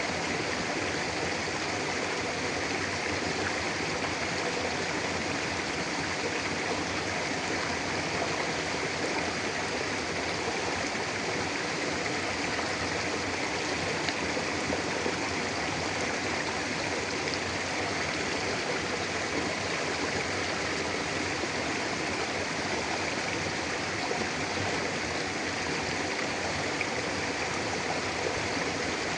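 Mountain river flowing steadily over rocks: a constant, even rush of water.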